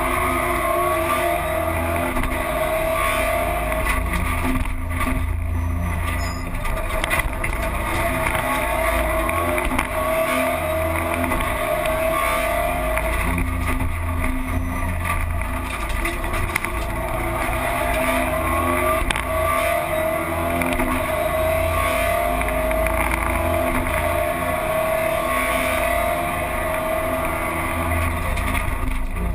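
Rally car's engine heard from inside the cabin under hard driving, its pitch climbing again and again and dropping back at each gear change, over a steady rumble of tyre and road noise.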